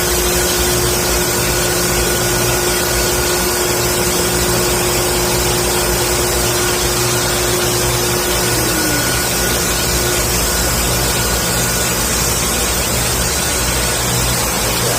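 A machine running steadily: a constant rushing noise with a steady hum, whose pitch dips slightly about eight seconds in.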